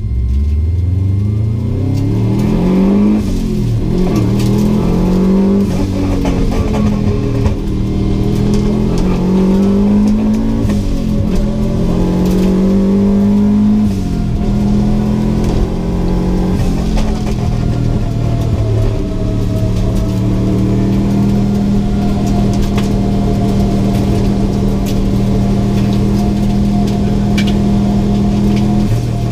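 Subaru GC8 WRX's turbocharged flat-four engine heard from inside the cabin, accelerating with the pitch climbing and dropping back several times as it goes up through the gears, then running at a steady pitch for the last ten seconds or so.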